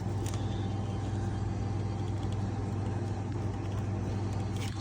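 Dishwasher motor running with a steady low hum, and a single sharp click right at the end.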